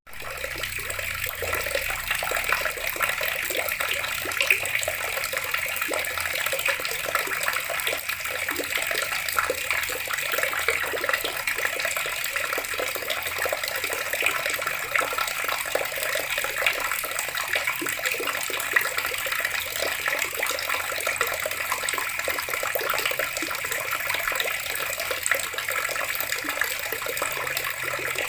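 Water running steadily from a tap and splashing, a dense even stream with many small splashes. It cuts out for an instant right at the start.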